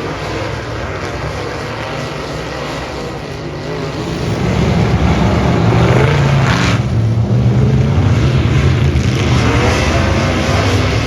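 Dirt modified race car engine running hard, getting louder about four seconds in and staying loud.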